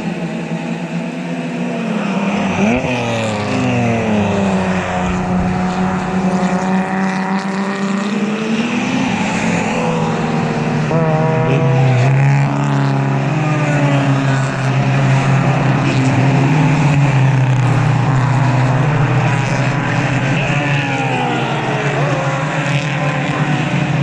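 Several road-race cars going by one after another, their engines revving and shifting, with the engine notes falling as each car passes and rising again as they accelerate away.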